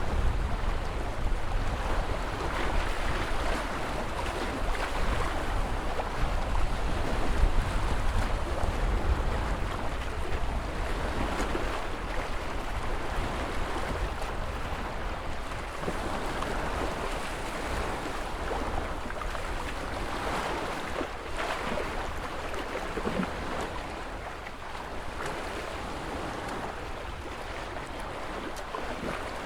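Ocean waves washing in as a steady rushing surf, with a low rumble of wind underneath, slowly growing quieter.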